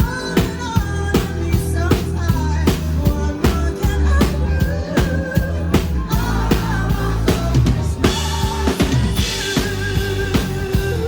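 Live band playing amplified music with a steady drum-kit beat of kick and snare under bass and a melodic lead line.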